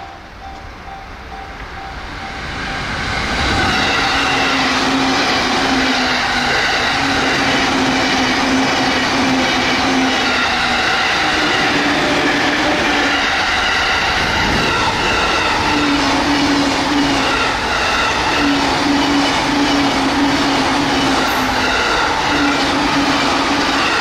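A 15-car E233/E231-series electric commuter train passing close by at about 100 km/h. The wheel-on-rail rush builds over the first few seconds and then stays loud and steady, with a low hum that breaks in and out.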